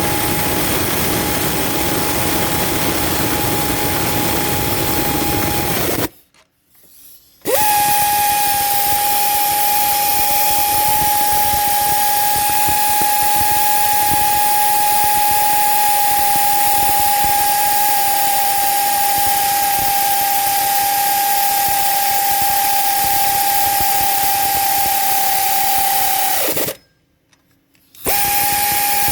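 Power tool motor running with a steady high whine. It cuts out twice, and the pitch falls as it winds down before the second stop.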